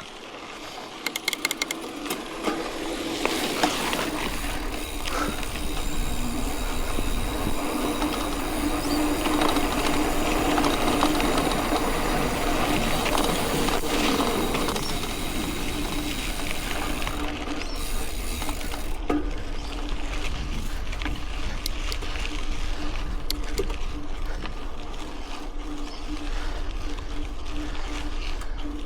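Mountain bike riding on a dirt road: tyres rolling over gravel with the bike rattling and clicking. The sound builds over the first few seconds, then holds steady.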